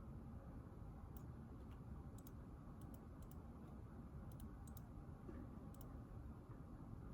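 Faint, scattered clicks, about seven of them at irregular intervals, over a low steady room hum.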